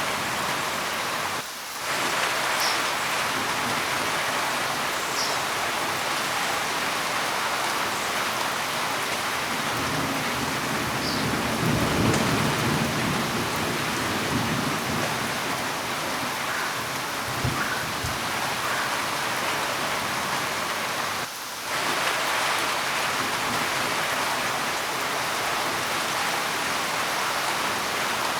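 Steady heavy rain, with a low rumble of thunder swelling and fading near the middle. The rain dips briefly twice.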